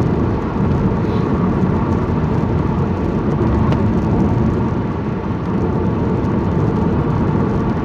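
Steady road and engine noise of a car being driven, heard from inside the cabin, mostly a low rumble.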